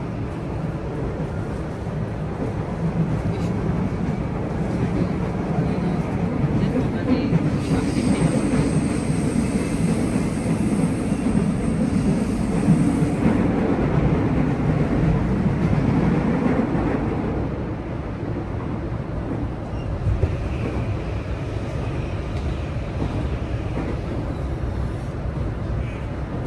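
Running noise of a JR West 323 series electric train heard inside the passenger car: a steady rumble that grows louder through the middle and eases off about two-thirds of the way in. A thin high tone sounds for several seconds near the middle.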